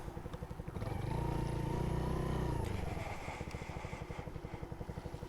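Motorcycle engine running with a rapid, even pulse, swelling louder for about two seconds in the middle before settling back.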